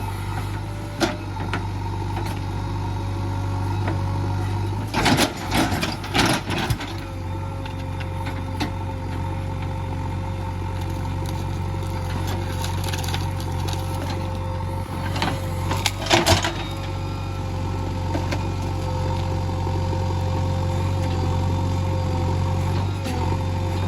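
JCB 3DX backhoe loader's diesel engine running steadily, with a steady whine over it. Two bouts of loud knocks and clatter break in, about five seconds in and again about sixteen seconds in.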